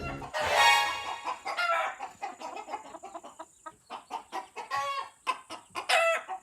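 Chickens clucking: a louder call about half a second in, then a run of short, separate clucks.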